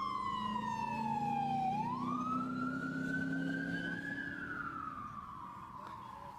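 Emergency vehicle siren wailing, its pitch sweeping slowly down, up and down again, fading as it goes.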